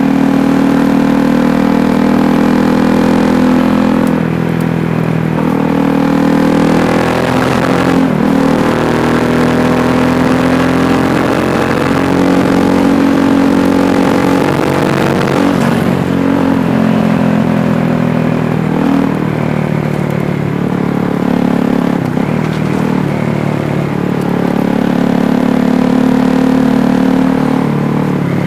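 KTM Duke 390's single-cylinder engine running under way, its pitch dipping and climbing every few seconds as the rider works the throttle through the gears.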